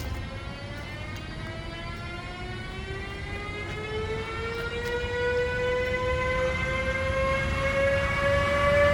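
Electric locomotive's traction drive whining, a layered tone rising steadily in pitch and growing louder as the train accelerates, over a low rumble.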